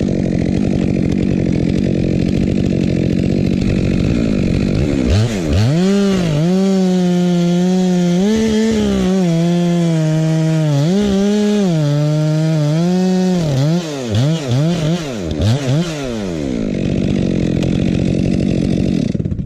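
Two-stroke chainsaw running, then throttled up about five seconds in and cutting through wood, its engine speed repeatedly dipping and recovering under the load of the cut before it eases off near the end.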